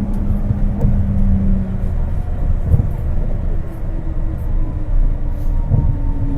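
Interior running noise of a Kobe New Transit 2020-series rubber-tyred automated guideway car: a steady low rumble with a motor whine slowly falling in pitch as the car slows toward a station, and a few light ticks.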